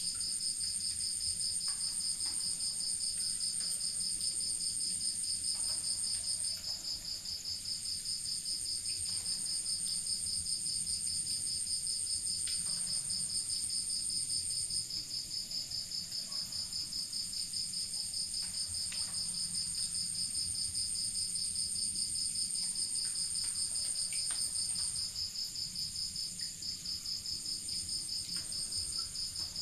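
Night insects chirping continuously in two overlapping high trills, a fast-pulsing one and a higher, steadier one that breaks off briefly a few times.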